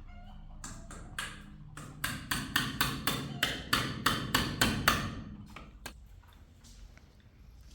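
A quick run of about a dozen sharp knocks, roughly three a second, from about two to five seconds in, with a couple of single knocks before it and one after.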